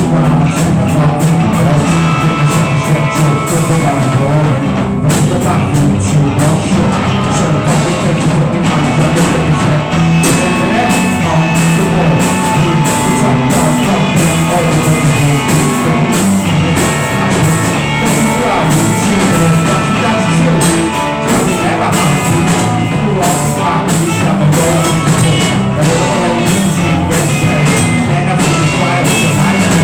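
Rock band playing a loud improvised jam: drum kit with steady cymbal hits, guitar and bass.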